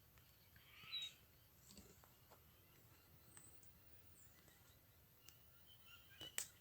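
Near silence, with a brief soft hiss about a second in and a few faint scattered clicks, then a sharper click near the end.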